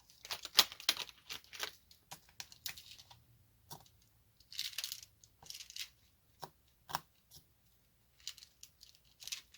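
Small plastic diamond-painting drills rattling and clicking, with quick taps of a drill pen placing drills on the canvas: a run of short, irregular clicks and little rattles.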